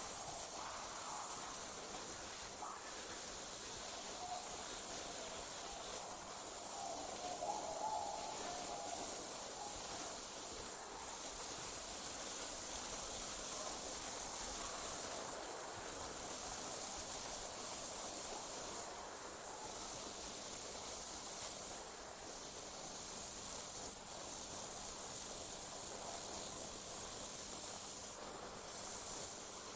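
Night insects, crickets, trilling steadily in a high pitch, the trill breaking off briefly every few seconds and resuming.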